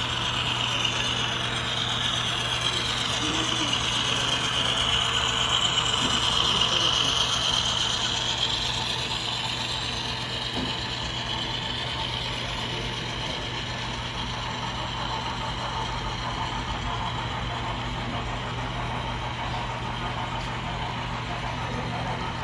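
Model train running along layout track, a steady whirring and rattling of wheels and motor that grows louder to about seven seconds in and then eases off, over a constant low hum.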